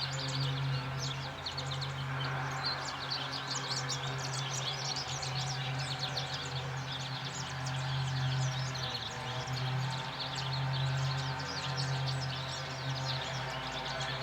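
Many small birds chirping rapidly and continuously, over a steady low hum.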